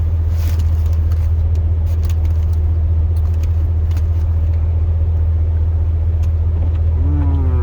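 Steady low drone of a 2002 Chevrolet Silverado's 8.1-litre big-block gas V8 running, heard from inside the cab.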